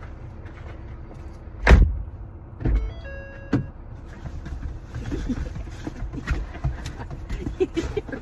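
Car engine idling steadily inside the cabin, while car doors thump shut twice about two and three seconds in. A sharp click and a brief electronic chime follow, then rustling and small knocks as someone settles into the back seat.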